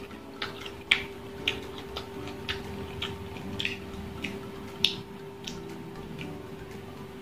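Close-miked chewing of crunchy unripe green mango, with sharp, wet mouth clicks and crunches about every half second.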